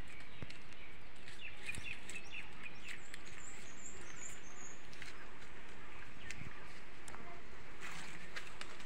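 Small birds chirping in the trees, with a run of high twittering about three to five seconds in, over a steady outdoor hiss and a few faint clicks.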